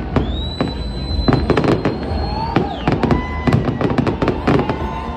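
Fireworks display going off overhead: rapid bangs and crackling bursts, densest in the middle. Near the start a high whistle rises and holds for about two seconds.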